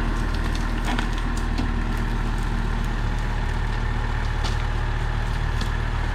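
LS MT573 tractor's diesel engine running steadily, with scattered sharp cracks and snaps of bamboo breaking under the tractor and rotary cutter.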